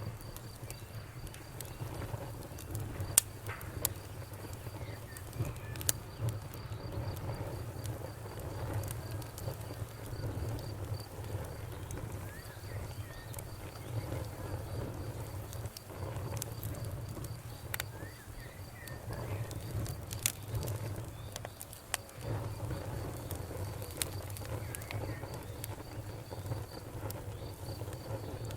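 Campfire crackling, with a few sharp pops and snaps scattered through it over a steady low rumble. Behind it, insects keep up a continuous high, pulsing trill.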